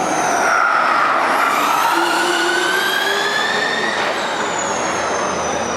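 Formula E race car's electric drivetrain whining at speed, the pitch climbing steadily as it accelerates, then dropping suddenly about four seconds in and falling away.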